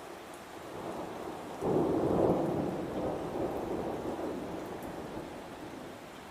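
Thunder rumbling over steady rain: a roll that swells suddenly about a second and a half in and fades away over the next few seconds.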